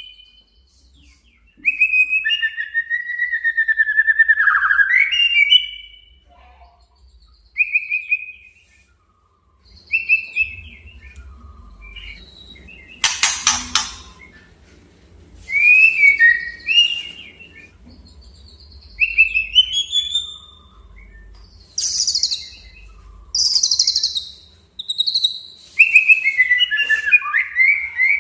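White-rumped shama (murai batu) singing in bursts of varied, gliding whistled phrases separated by short pauses, mixed with a few harsh, scratchy notes, the strongest about halfway through. It is a male's aggressive, fighting song.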